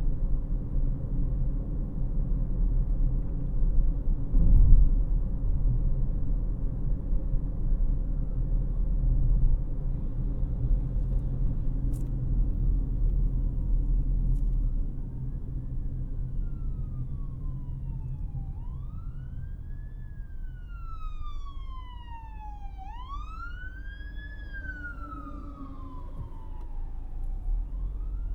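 Steady road and engine rumble inside a 2018 Honda CR-V's cabin, with a brief bump a few seconds in. About halfway through the rumble drops, and an emergency vehicle's siren comes in, wailing in slow rising and falling sweeps and growing louder toward the end.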